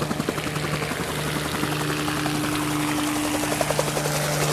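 Helicopter sound effect: rotor blades chopping rapidly and evenly over a steady engine hum.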